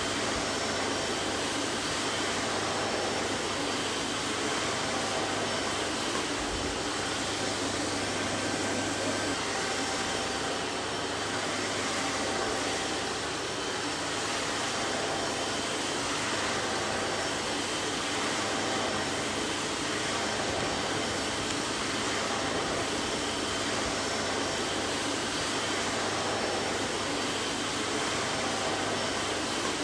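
Vacuum cleaner running steadily: an even, unbroken rushing hum with a faint whine.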